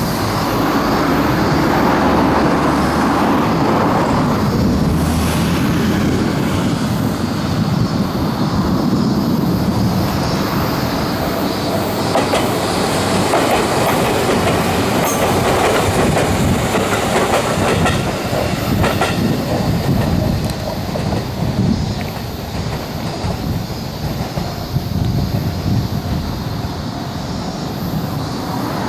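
Electric train running along the track, its wheels clacking over rail joints in a loud, steady rumble that eases slightly about two-thirds of the way through.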